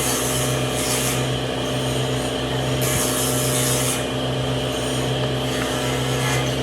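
A power tool running steadily with a motor hum while working wood, with several bursts of rasping hiss as it cuts into the surface.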